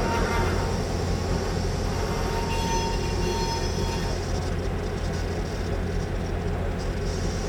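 GP9 diesel-electric locomotive running with a steady, heavy low drone.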